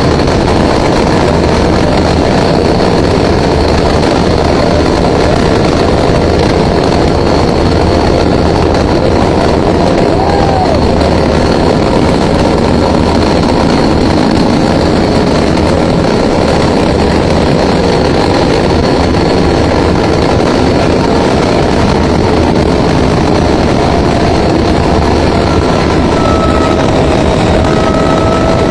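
Helicopter running steadily at close range: loud, unbroken rotor and engine noise with a throbbing low rumble and a thin steady high whine.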